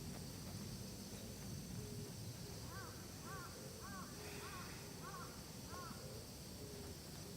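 Outdoor forest ambience: a bird gives a short arched call six times in a row, a little under two a second, in the middle of the stretch, over a steady high hiss.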